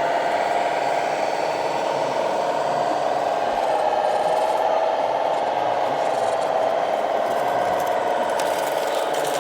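Radio-controlled model truck's small electric motor and gearing, running with a steady whine whose pitch wavers slightly up and down.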